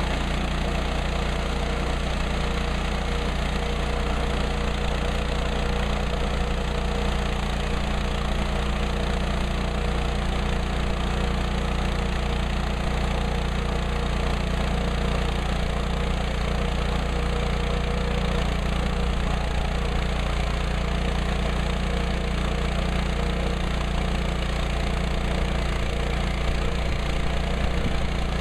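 Woodland Mills HM130 Max portable sawmill's engine running steadily, its level unchanging.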